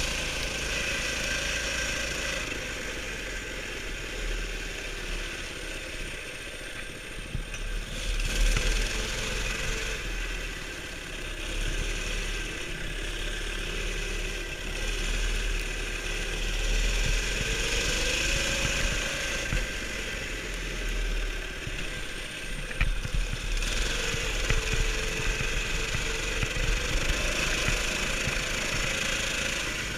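Baja Warrior mini bike's small single-cylinder engine running continuously, its pitch rising and falling several times as the throttle changes, over a low rumble.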